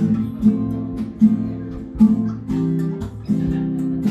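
Acoustic guitar strumming chords in a steady rhythm, each chord ringing on until the next stroke: the instrumental ending of a country song after the last sung line.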